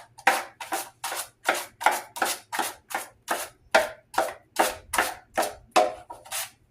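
A 6-inch drywall knife mixing five-minute setting joint compound in a metal mud pan: quick, regular scraping strokes, about three to four a second.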